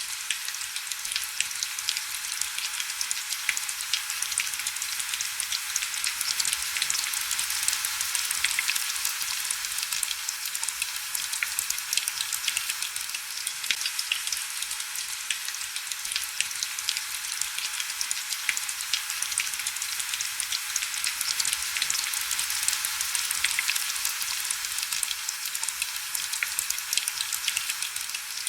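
Heavy rain falling steadily: a dense, even hiss of countless fine drop ticks, high and thin with almost no low rumble.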